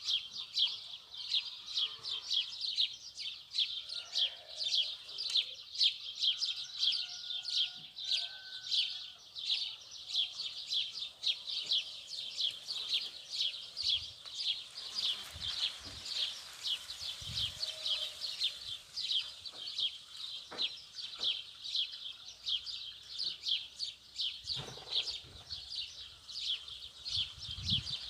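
Continuous rapid, high-pitched chirping, about three short chirps a second and very even, with a few faint low thumps from about halfway on.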